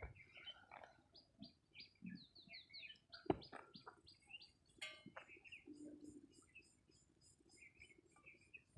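Faint birdsong: small birds chirping in quick series of short high notes, with a few scattered soft knocks and one sharper knock about three seconds in.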